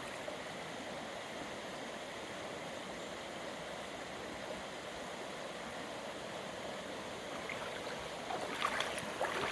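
Small upland stream running steadily over stones, an even rushing of water, with a few brief sharp sounds near the end.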